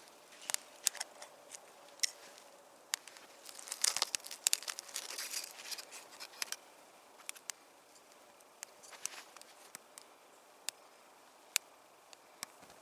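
Campfire burning, its wood giving off irregular sharp crackles and pops, thickest about four to five seconds in.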